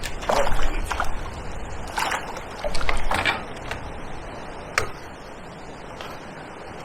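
Water splashing and sloshing with several sharp knocks as a hooked perch is landed, busiest in the first three seconds or so, with one more knock about five seconds in before it settles to faint lapping.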